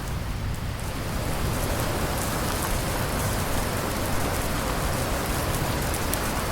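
Steady rain: an even, dense hiss with faint ticks of drops on a surface.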